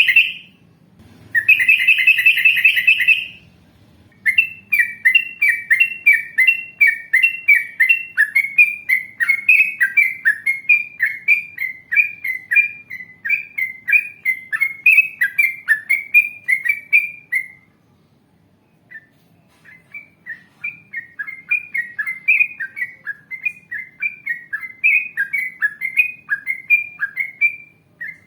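Yellow-vented bulbul singing: two harsh, chattering bursts, then a long, rapid run of short repeated notes, about three a second. After a brief pause near the middle, another run follows.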